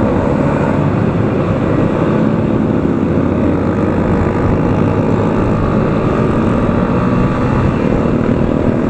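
Motorcycle riding at a steady speed: the engine running under a steady rush of wind on the microphone.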